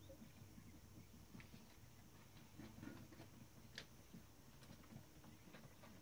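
Near silence with a few faint, scattered clicks of small metal typewriter parts being handled, the sharpest a little past the middle.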